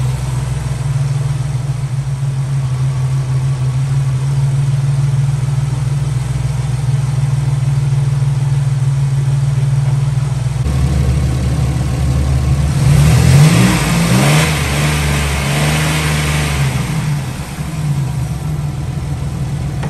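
A 2000 Chevy Venture van's 3.4-litre V6 idling steadily as it warms up while trapped air is bled from its cooling system. About two-thirds of the way through, the engine speed rises and falls a few times, with a rushing hiss at its loudest.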